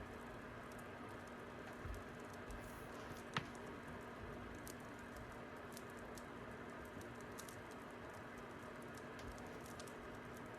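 Fire crackling: a steady soft hiss with scattered, irregular small pops, one sharper pop about a third of the way in.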